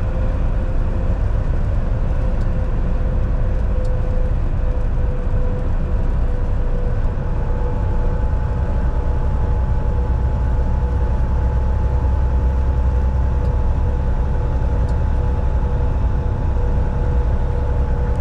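Volvo VNL 760 semi truck cruising, heard from inside the cab: a steady low diesel engine drone and road rumble with a faint steady whine, joined by a second, higher whine about seven seconds in.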